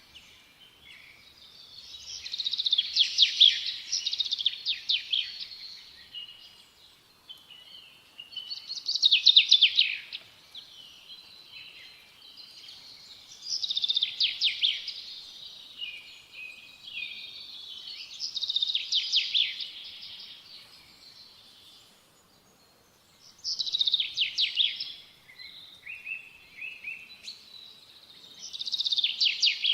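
Small songbird singing, repeating a phrase of fast, high trills every four to five seconds, with softer chirps in between.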